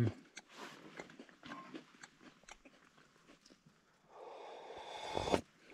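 Biscuits crunching and being chewed close to the microphone, with many small crunches. About four seconds in comes a longer sip of hot tea, ending in a loud knock near the end as the mug is set down.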